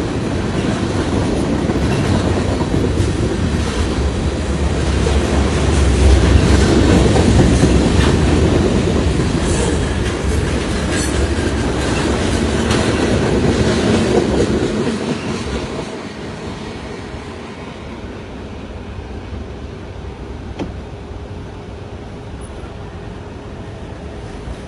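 CN freight train rolling past, a continuous heavy rumble of wheels on rail that is loudest about six to eight seconds in, then drops off sharply about fifteen seconds in to a much quieter steady noise.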